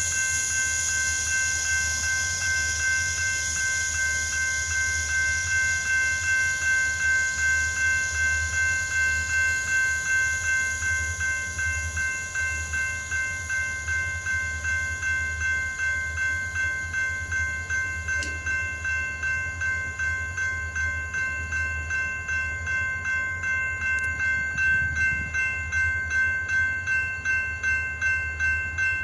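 A bell ringing steadily at about two strokes a second, over the low, steady rumble of idling diesel locomotives.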